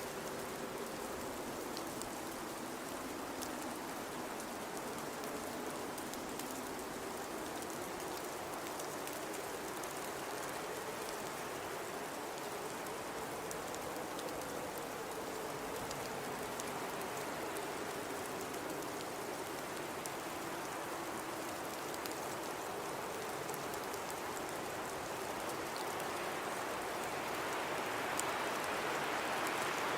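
Blizzard wind blowing, a steady rush with a low moaning tone that wavers slowly in pitch; a gust swells louder near the end.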